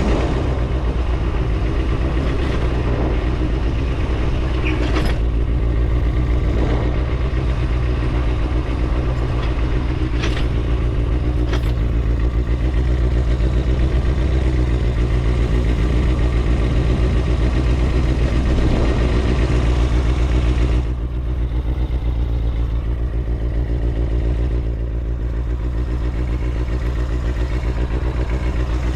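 Kawasaki ZXR250 motorcycle's inline-four engine running steadily. About twenty-one seconds in, the sound turns duller and slightly quieter.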